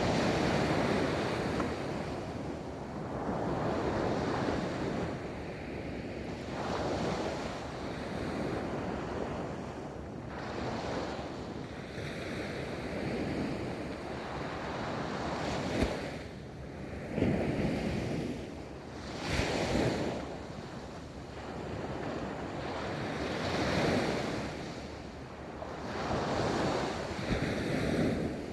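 Ocean waves rolling in and breaking on a beach: a hiss of surf swelling and fading every few seconds, with a few sharper crashes in the second half, and some wind on the microphone.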